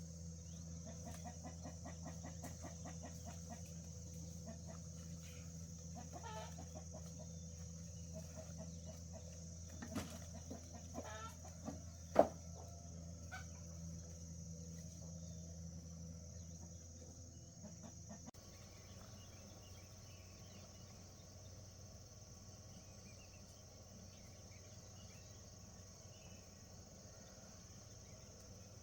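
Chickens clucking, with one brief, much louder sound about twelve seconds in. A little past halfway the clucking gives way to a quieter, steady chirring of insects.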